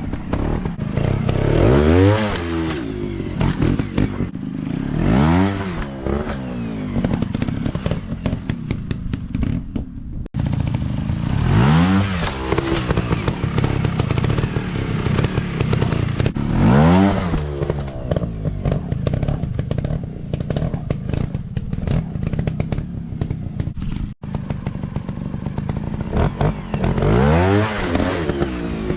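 Small 150 cc dirt bike engines running and being revved hard over and over, the pitch climbing and falling with each throttle blip, with rattling and knocks from the bikes. The sound breaks off for an instant twice.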